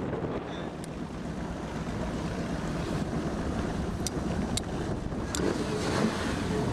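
Wind buffeting the microphone over a low steady rumble, with a few sharp clicks about four to five and a half seconds in.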